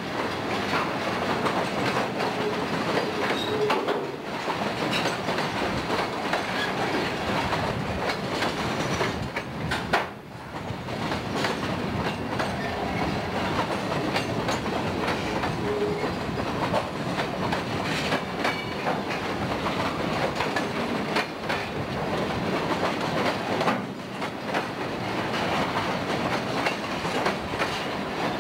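Freight train of flatcars rolling past, its steel wheels clicking rhythmically over rail joints above a steady rumble of wheels on rail. A single sharp bang comes about ten seconds in.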